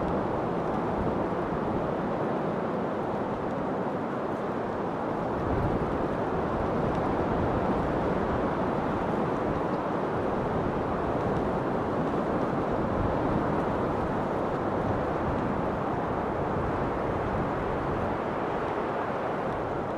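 Wind blowing in a steady rushing hiss, swelling slightly about a third of the way through and easing again.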